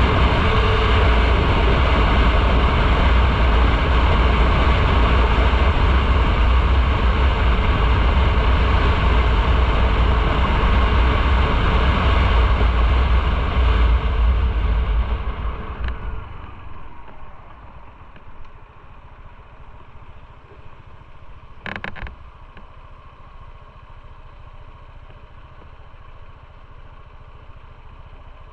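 Motorcycle on the move: heavy wind and engine rumble on the microphone at speed, dying away about halfway through as the bike slows, leaving the engine running quietly. A brief clunk a few seconds after that.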